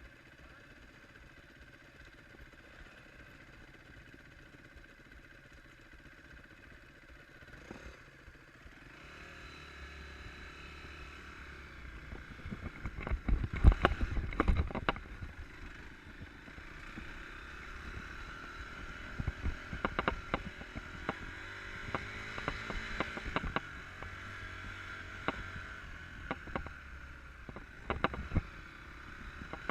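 Enduro dirt bike engine running as the bike is ridden, with sharp clattering knocks, heaviest about halfway through. The first several seconds are much quieter before the engine sound builds.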